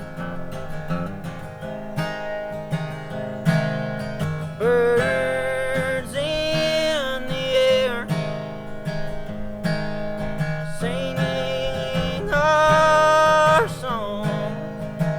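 Acoustic guitar strummed in a steady rhythm, with a held melody line rising over it twice, about 5 seconds in and again about 11 seconds in.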